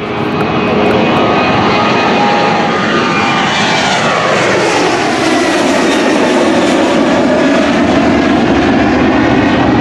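Airplane engines passing close by, loud and steady. Their whine falls in pitch a few seconds in as the plane goes past.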